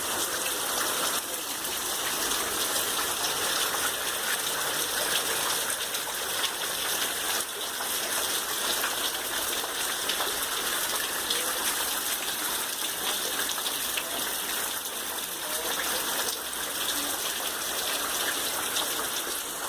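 Rain falling steadily: a dense, even hiss of drops with no let-up.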